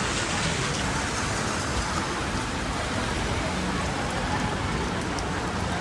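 Steady rain: an even hiss of falling rain with no single sound standing out.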